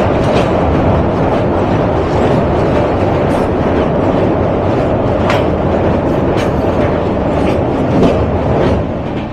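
Express passenger train running on the rails: a steady, loud rumble of coach wheels on track with scattered rail-joint clicks. It eases slightly near the end.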